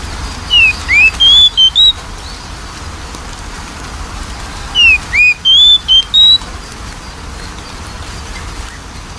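Oriental magpie-robin (kacer) singing: two short phrases of clear, sliding whistled notes, about four seconds apart, over a low steady hum.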